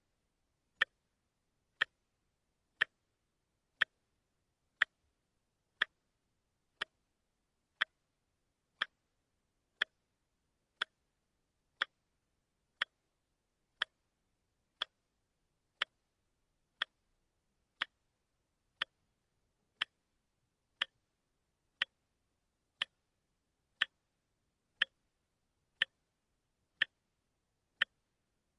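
Watch ticking, one sharp tick every second at a perfectly even pace, with nothing else between the ticks.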